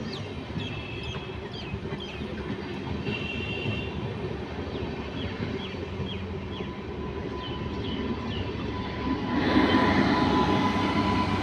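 A train running on the line: a steady rumble that grows louder about nine seconds in, joined by a steady whine, with short high chirps over it.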